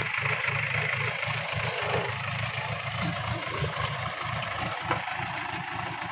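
A diesel engine idling, with an even low pulse.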